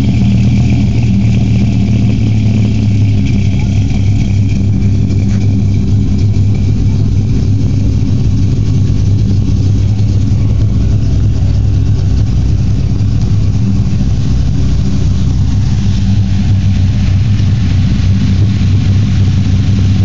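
Dodge Ram SRT-10's V10 engine idling steadily through its exhaust, a deep, even note with no revs.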